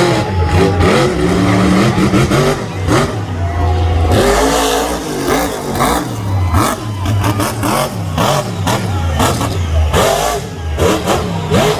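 Monster truck engine revving hard and repeatedly during a freestyle run, its pitch climbing and dropping, with sharp bangs through the run.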